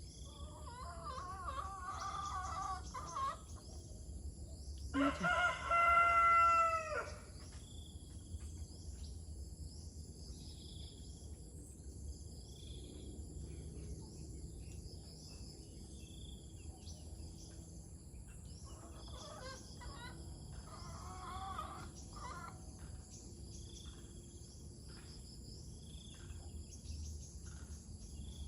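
A rooster crowing loudly once, about five seconds in, with fainter crowing-like calls near the start and about twenty seconds in. A steady, evenly pulsing high insect chirring runs underneath.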